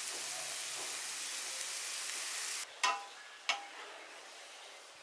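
Noodles frying with onion and tomato in a pan, a steady sizzle that drops off sharply a little over halfway through. Then two sharp knocks of a wooden spatula against the frying pan, each with a brief ring, followed by quieter sizzling as the noodles are stirred.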